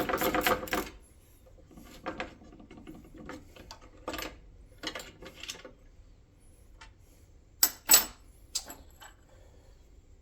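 Hand work on metal shifter parts: a quick run of rapid metallic clicks at first, then scattered light clicks and rattles, and two sharper metal clicks about eight seconds in.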